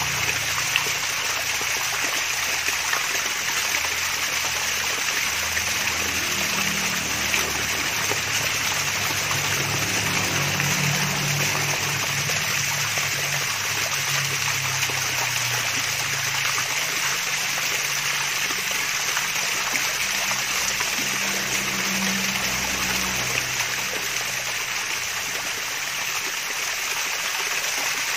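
Water of a small waterfall splashing and trickling steadily, an even rushing hiss with a soft low gurgle underneath.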